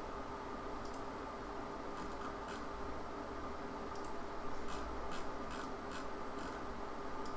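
Computer mouse clicking: a dozen or so short single clicks, sparse at first and coming more quickly in the second half, over a steady background hum.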